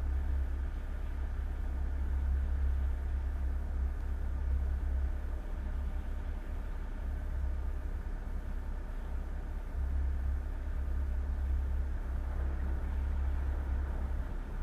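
Boat engine running steadily, a low drone with a faint hum of higher tones above it.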